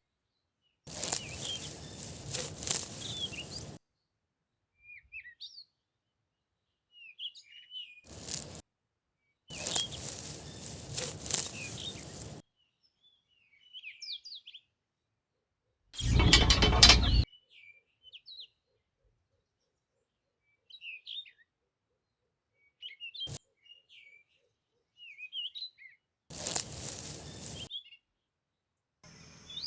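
Small birds chirping on and off, between several short bursts of clattering, rattling handling noise. The loudest burst comes a little past the middle, and each burst starts and stops abruptly.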